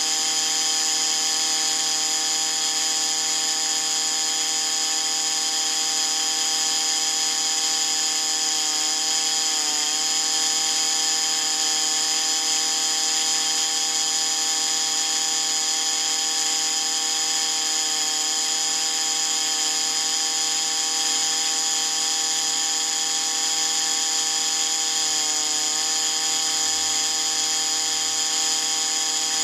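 Dremel-type rotary tool running steadily at high speed with a high whine, grinding to sharpen a 0.5 mm drill bit. Its pitch dips briefly twice, about a third of the way in and again near the end.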